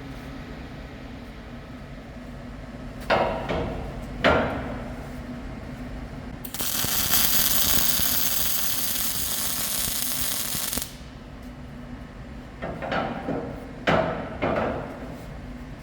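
Steel parts and tools clanking in a metal fabrication shop: two sharp ringing knocks, then a steady hiss lasting about four seconds that cuts off suddenly, then another run of clanks.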